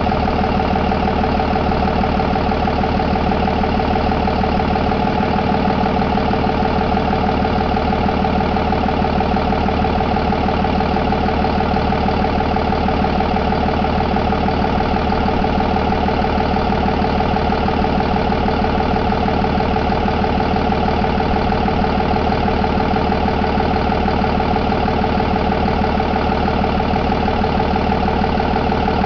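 2022 Cummins B6.7 inline-six turbodiesel engine idling steadily.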